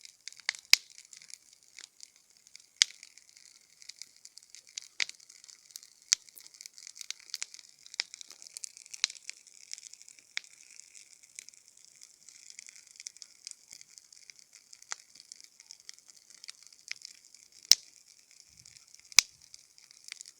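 Campfire burning: wood crackling with irregular sharp pops over a steady hiss, a few pops much louder than the rest, near the start and twice near the end.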